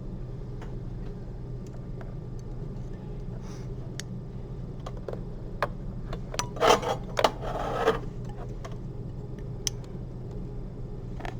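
Surgical instruments clicking and rubbing as a needle driver and forceps work a suture line, with a denser run of louder clicks and scraping about seven seconds in. A steady low hum sits underneath.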